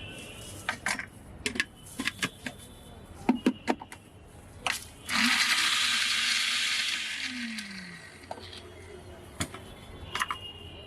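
Glass clinking and tapping, then a sudden loud fizzing hiss about five seconds in as soda water gushes into the glass and foams up, dying away over two or three seconds. A few more clinks come near the end.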